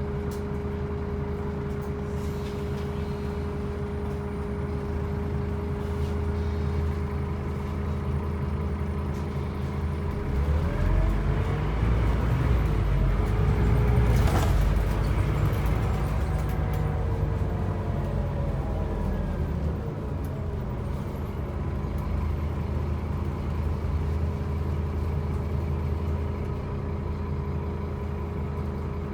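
Scania N270UB OmniCity bus's diesel engine running steadily, then pulling harder from about a third of the way in, its pitch rising and falling for several seconds before it settles back to a steady note. A short sharp noise sounds about halfway through.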